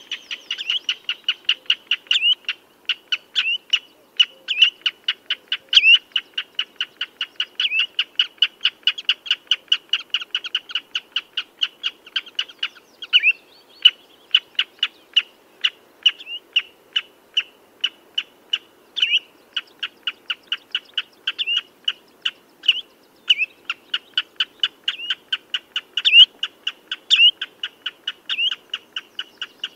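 Common redshank calling: a rapid, continuous series of short piping notes, about four a second, some louder ones slurring downward.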